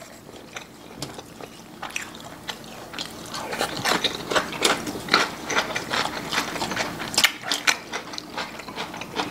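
Close-miked mouth sounds of people eating braised pork backbone meat: wet chewing, lip-smacking and sucking clicks, sparse at first and becoming a dense, rapid run of smacks about three seconds in.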